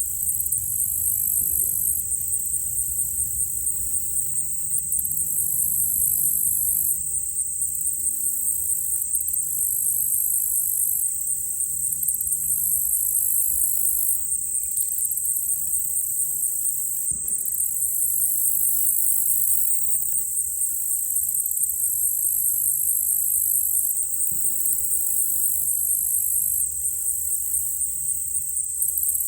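Steady high-pitched insect chorus of crickets or katydids trilling over a low rumble. In the second half come two distant gunshots from a shooting range, about seven seconds apart.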